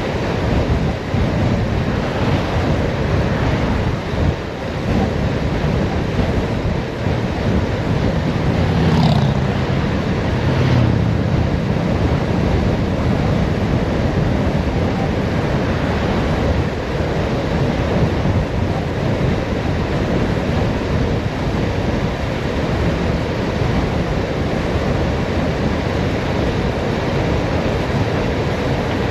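Steady wind rushing over the microphone of a camera on a bicycle coasting downhill at speed. About eight to eleven seconds in, a brief pitched hum rises and falls over it.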